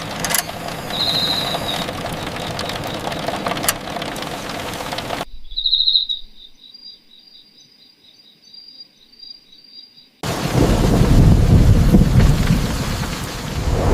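Steady rain with short high chirps cuts off suddenly, leaving crickets trilling alone. About ten seconds in, heavy rain starts suddenly, with a deep rumble underneath.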